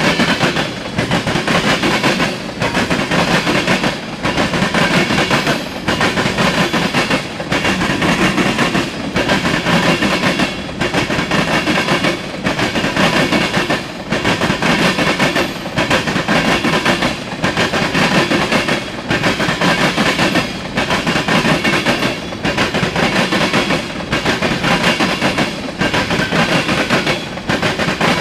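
Norfolk Southern freight train's cars rolling past close by: steel wheels grinding and clattering on the rails, the noise dipping in an even rhythm about every second and a half to two seconds as each car goes by.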